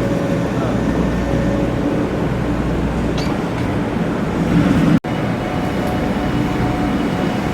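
Steady hum and rumble of Shinkansen trains at a station platform, with a few faint steady tones. A sudden brief dropout about five seconds in.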